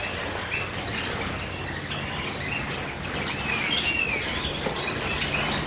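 Small caged birds chirping and twittering: many short, high chirps and quick sliding notes. A steady low hum runs underneath.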